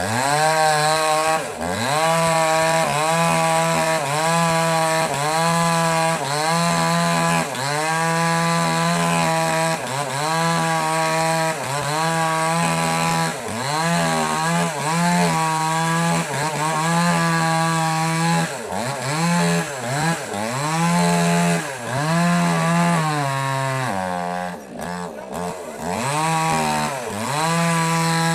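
Petrol mini chainsaw running under load while cutting wood, its engine speed rising and sagging over and over, about every one and a half to two seconds. Near the end the engine speed drops lower for a couple of seconds before picking up again.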